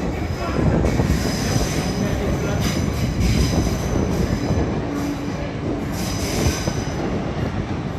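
A train moving along the track with a steady rumble, its wheels squealing high-pitched against the rails; the squeal comes and goes about three times.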